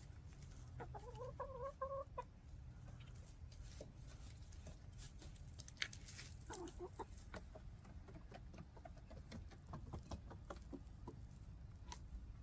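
Backyard laying hens clucking softly, with one drawn-out rising call early on and scattered short clucks and pecking clicks later, over a steady low rumble.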